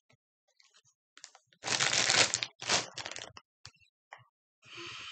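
Mouthful of Cheez-It Snaps crackers being crunched and chewed, in scattered crackly bursts, the loudest about two seconds in.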